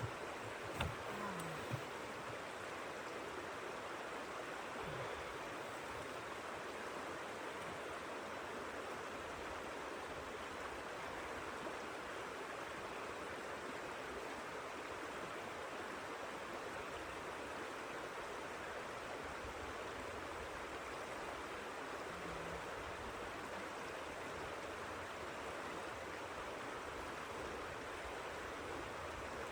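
Steady rushing of blizzard wind, even and unbroken, with a few light knocks in the first two seconds.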